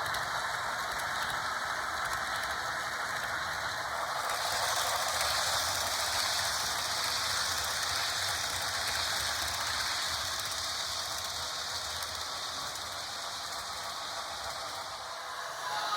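HO scale Broadway Limited Paragon 3 Pennsylvania Railroad K4s steam locomotive and its heavyweight passenger cars running on track: a steady clattering rush of wheels and mechanism. A brighter hiss joins about four seconds in.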